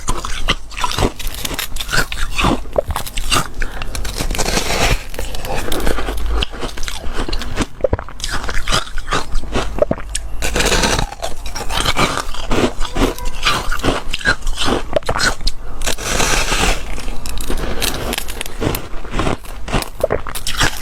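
Shaped foam ice being bitten and chewed close to the microphone: a dense run of crunches and crackles, with heavier crunching spells about four, ten and sixteen seconds in.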